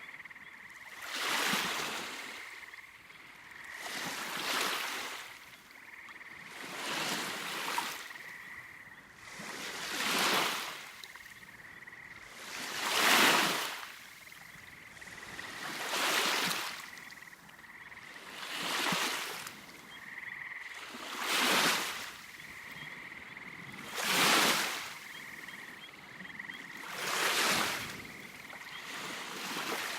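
Small waves washing onto a beach about every three seconds, each swell rising and falling away, with a faint steady high-pitched tone underneath.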